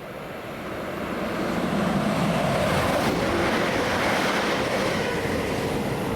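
A train passing on the main line, its rumble and wheel noise swelling over the first two seconds and then staying loud.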